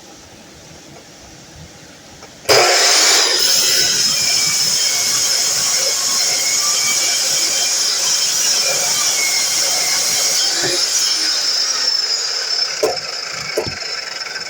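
DeWalt miter saw switched on about two and a half seconds in, its motor and blade running loud with a steady high whine through a cut. Near the end the level eases a little and there are two short knocks.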